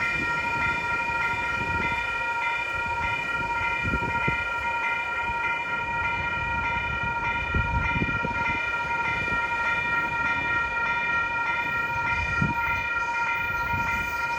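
Electronic railroad grade-crossing warning bell ringing steadily, with low, uneven rumbling underneath.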